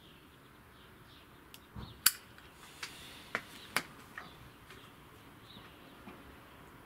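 Faint bird chirps in a garden, with a handful of sharp clicks and a soft thump about two to four seconds in.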